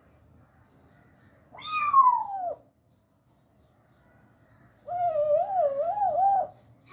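African grey parrot calling twice. The first call is a falling whistle about a second and a half in. The second is a longer wavering whistle near the end that goes up and down about three times a second.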